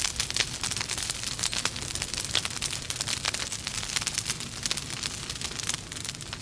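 Wood logs burning in a fireplace, crackling steadily: many small sharp snaps over a soft hiss.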